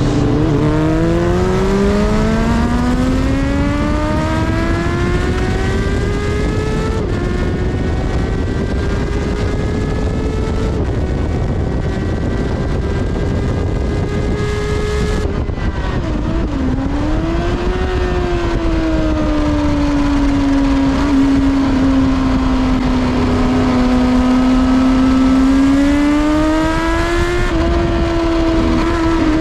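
Kawasaki ZXR400's inline-four engine heard onboard. It slows right at the start, then accelerates with rising revs and a gear change about seven seconds in. It backs off sharply about halfway and then runs at nearly steady, lower revs on the slow in-lap, with a constant rush of wind and road noise underneath.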